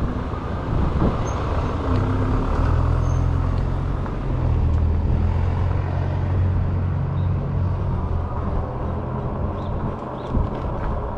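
A motor vehicle's engine running steadily close by, over a haze of wind and road noise. Its low hum grows in about two seconds in, holds, and fades near the end.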